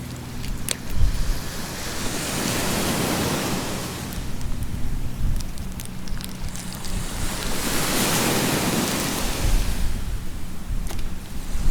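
Sea waves washing onto a beach, swelling and fading in two slow surges, with wind buffeting the microphone.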